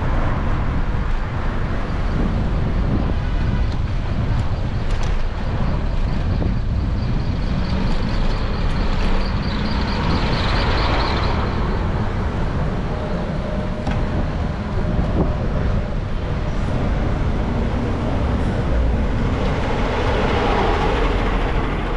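Steady low rumble of wind and riding noise on a bike-mounted action camera's microphone, with brief louder swells about halfway through and near the end.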